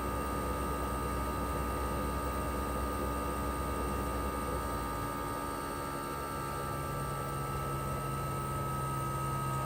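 Toshiba RAS-285BAD air-conditioner outdoor unit running in cooling, its twin rotary compressor and propeller fan making a steady hum with a soft rush of air. About five seconds in, the hum's pitch shifts up as the compressor changes speed.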